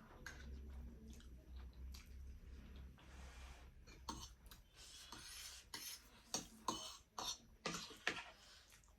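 Eating sounds: chewing of spicy instant noodles and momo, with scattered light clicks of cutlery on a plate or bowl.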